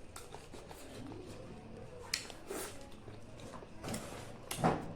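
Close-miked eating sounds: a few short wet mouth noises of someone chewing and smacking on food, the loudest near the end.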